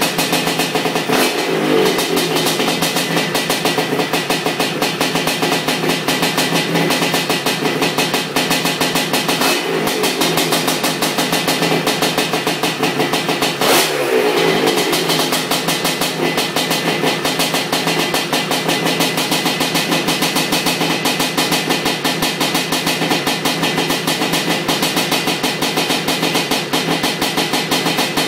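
Honda 250R trike's two-stroke engine, built up as a 310 ESR big-bore, running at a fast-pulsing idle on its first heat cycle. It is blipped up three times, about a second, ten seconds and fourteen seconds in, each rev falling back to idle.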